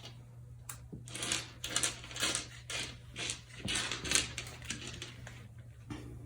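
Small screws and metal fan-blade hardware handled while being fitted: a series of short scratchy rustles and clicks, about two a second, from about a second in until near the end.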